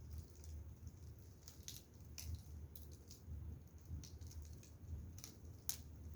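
Firewood burning, with faint irregular crackles and pops over a low steady rumble.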